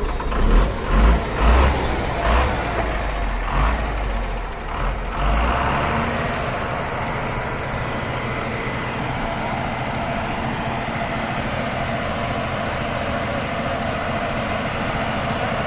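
A heavy truck's engine running, with a series of heavy knocks and thumps over the first five seconds or so, then a steady drone of the engine.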